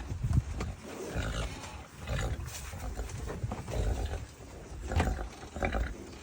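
Farm animals calling with rough, noisy vocalizations in irregular bursts, excited at the approach of feed.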